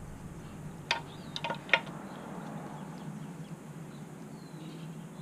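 A wrench clinking against metal as a motorcycle chain adjuster is turned: three light, ringing clicks in the first two seconds, the last one the loudest.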